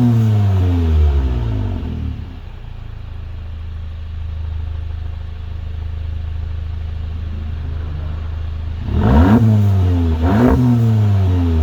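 2019 VW Golf GTI's 2.0-litre turbocharged four-cylinder through a Milltek GPF-back exhaust with the resonator deleted: revs falling back to a steady idle, then two quick throttle blips about two-thirds of the way in, each rising and dropping straight back.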